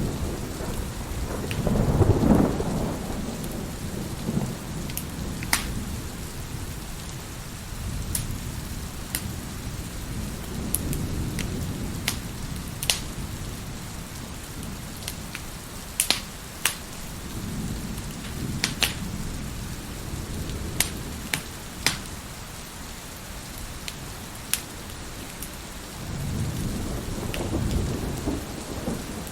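Wood fire crackling with sharp, scattered pops, over steady rain and rolls of thunder that swell and fade several times.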